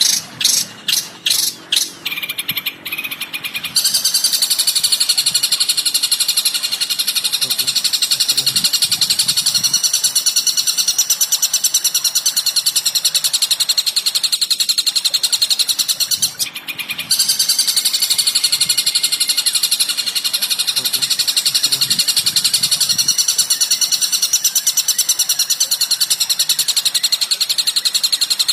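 Recorded bird song played as masteran training material: a few sharp chirps, then a long, very fast high-pitched trilling chatter that breaks off briefly a little past halfway and starts again.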